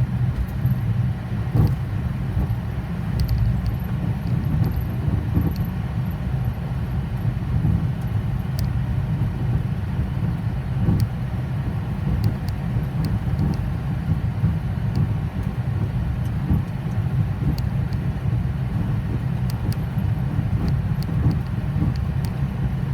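Boeing 737's jet engines idling, heard from inside the cockpit as a steady low rumble.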